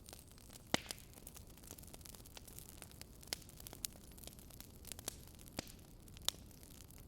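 Wood fire burning in a fireplace, with a low steady rush and sharp crackles and pops at irregular intervals, the loudest about a second in.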